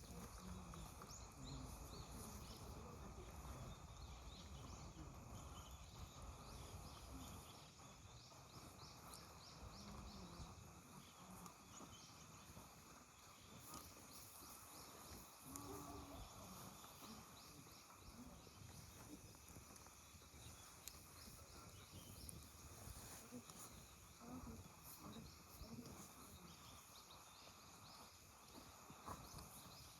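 Faint outdoor ambience: quick high bird chirps and trills come and go over a low, steady background hum, with faint distant voices now and then.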